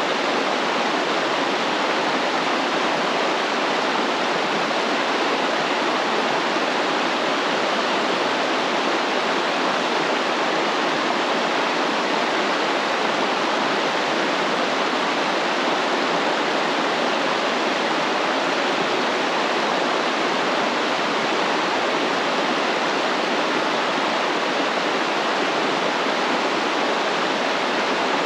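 A flowing stream: water running steadily, with no breaks or changes.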